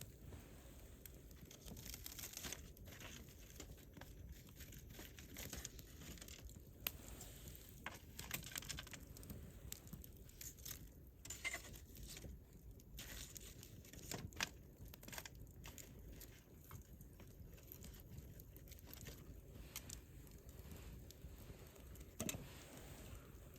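Wood campfire crackling quietly: irregular small snaps and pops over the low, steady hiss of burning.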